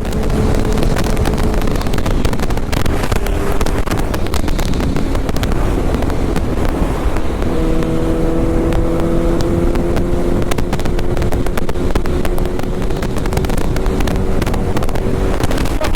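Motorcycle being ridden, its engine running under heavy wind buffeting on the microphone, with a steady engine note coming through from about halfway in.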